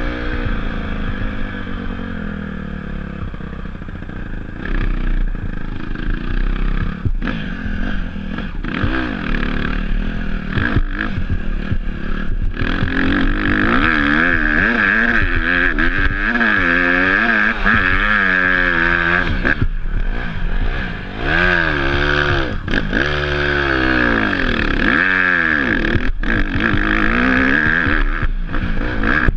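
Dirt bike engine revving up and down again and again as the throttle is opened and closed, with brief cut-outs in the engine note.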